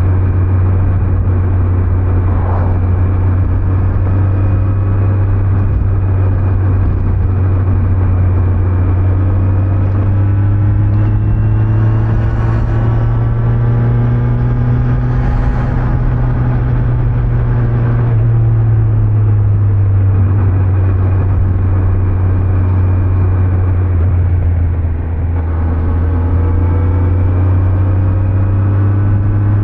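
Engine of a 2025 Kawasaki Z900 with its stock exhaust, a 948 cc inline-four, running while the bike rides along at road speed. The engine note rises a little and eases back partway through, and briefly drops in level near the end.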